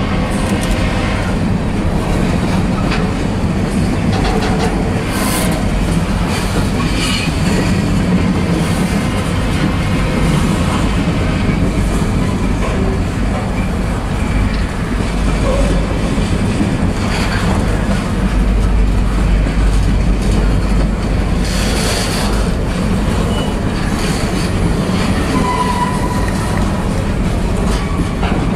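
Freight train's covered hopper cars rolling past close by: a steady rumble of steel wheels on the rails, with a few short clanks along the way.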